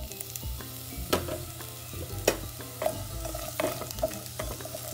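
Diced onion and garlic sizzling in melted butter in a frying pan as they sauté, stirred with a spatula that taps against the pan a few times.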